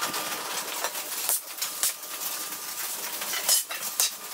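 Steady hiss of rain on a metal shop building, with a few sharp clacks, loudest about three and a half seconds in, from wooden 1x4 boards being set down on a concrete floor.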